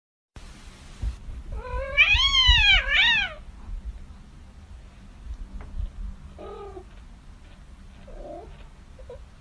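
Domestic cat meowing: one loud, drawn-out two-part yowl rising and falling in pitch about two seconds in, followed by a few fainter, shorter meows.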